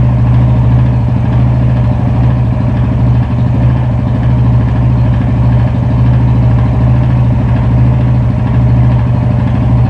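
Yamaha Fazer 250's single-cylinder four-stroke engine idling steadily, with a fast, even pulse.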